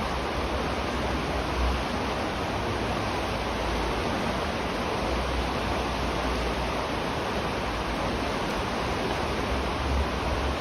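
River water rushing steadily, heard from beneath a bridge deck: a dense, even rush with a low rumble that swells and fades.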